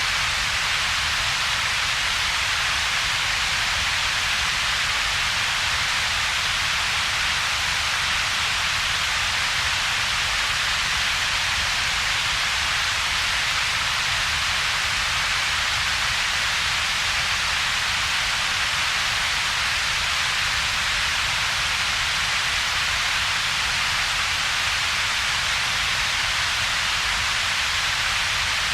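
Steady synthetic noise with two peaks in its spectrum: a low rumble and a broader, louder hiss higher up, with a gap between them. It does not change.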